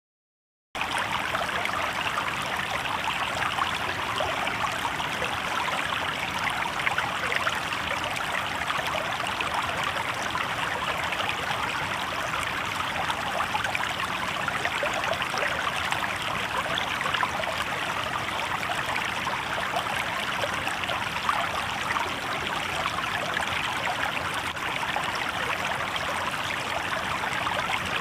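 River water babbling and trickling over rocks in a steady, even rush, cutting in abruptly from silence less than a second in.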